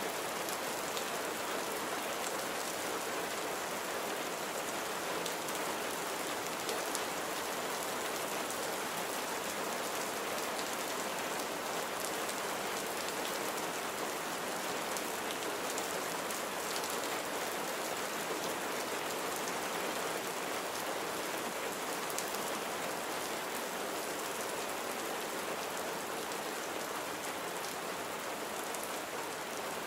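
Steady rain falling on a surface, an even hiss with scattered droplet ticks.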